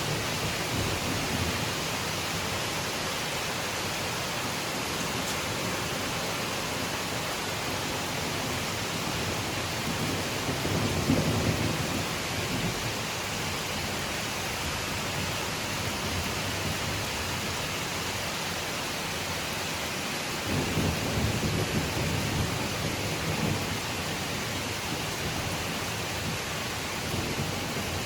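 Steady rain falling on foliage, an even hiss throughout. Low rumbles swell up twice, briefly about eleven seconds in and for a few seconds from about twenty seconds in.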